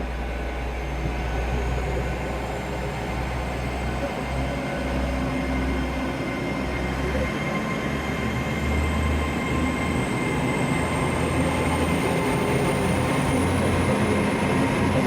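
Passenger train at the station platform, its engines running with a steady low rumble and a faint high whine that slowly climbs in pitch through the second half as it gets ready to depart.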